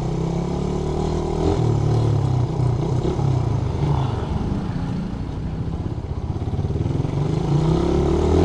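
Suzuki Raider 150 single-cylinder four-stroke motorcycle engine running under way, its note rising with the throttle until about a second and a half in, dropping at a gear change, and rising again near the end.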